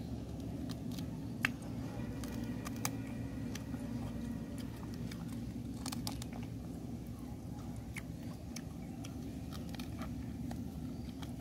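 A person biting and chewing fried duck, with scattered short crunchy clicks over a steady low background rumble.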